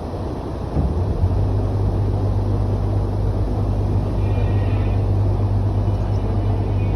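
Tour boat's engine running with a steady low drone; about a second in a deep steady hum comes in and the sound grows a little louder.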